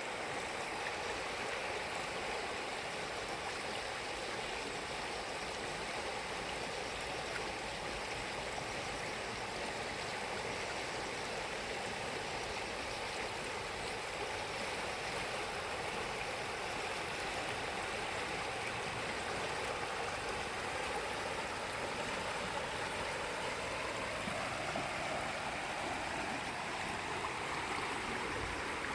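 River water rushing steadily, the flow of a river the day after a typhoon.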